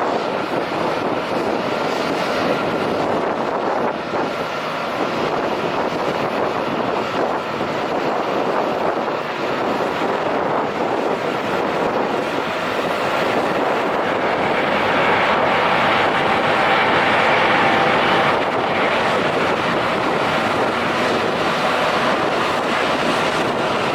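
Jet airliner engines running at takeoff power, a steady rushing roar that grows somewhat louder about two-thirds of the way through. Wind buffets the microphone.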